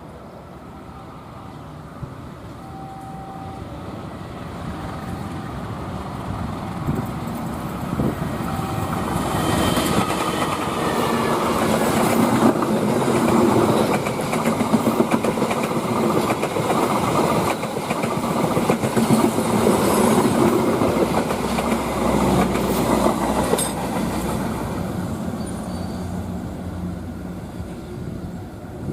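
Passenger train passing: it grows louder as it approaches, wheels clatter over the rail joints with rapid clicks as the coaches go by, then the sound fades as it moves away.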